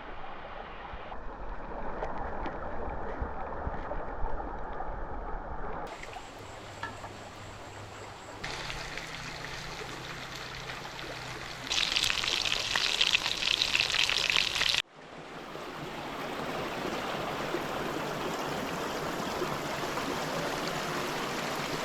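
Stream water flowing and trickling, in several spliced shots whose sound changes abruptly. The loudest stretch is a brighter rushing hiss about halfway through, which cuts off suddenly.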